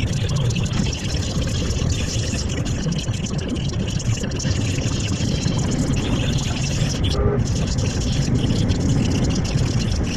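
Scania V8 580 lorry on the move: a steady low engine rumble with road and tyre noise, unchanging throughout.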